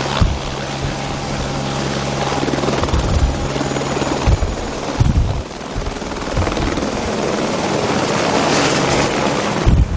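Helicopter running close by, its engine and rotor making a dense steady noise; a low steady hum under it drops away about four seconds in.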